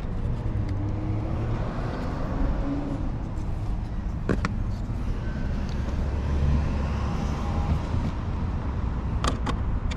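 Steady low rumble of a motor vehicle running, with a few sharp clicks about four seconds in and near the end.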